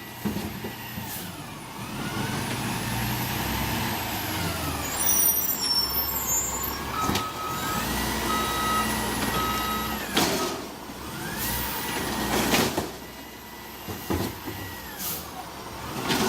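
Garbage truck at work, its diesel engine running. A backup alarm beeps for a few seconds near the middle, and there are several short, sharp bursts of air.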